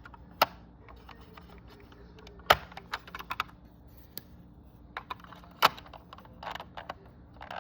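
Small clicks and taps of a removable roof piece being fitted onto a diecast model car, with three sharper clacks about half a second, two and a half seconds and five and a half seconds in.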